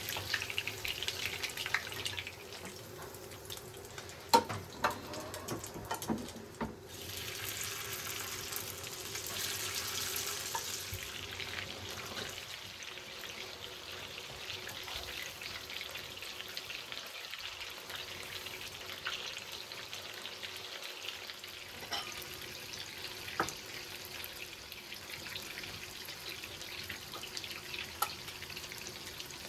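Kitchen work: a steady hiss, brighter in the first couple of seconds and again for a few seconds in the middle, with scattered clicks and knocks of utensils or dishes, the sharpest about four to six seconds in.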